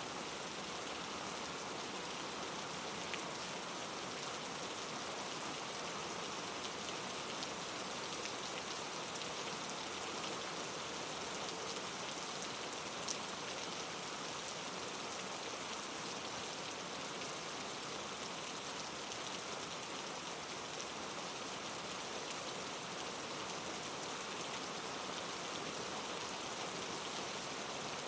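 Steady patter of falling precipitation on a surface: an even hiss with a few faint ticks.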